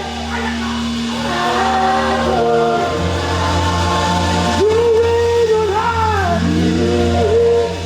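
Worship music: singers holding sustained, wordless gliding notes over a steady keyboard bass pad, which moves to a lower bass note about three seconds in.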